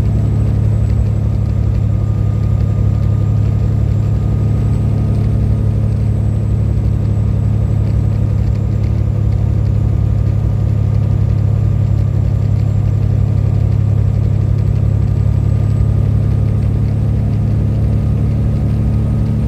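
Truck engine running steadily at cruising speed, a constant low drone with road noise and no change in pitch.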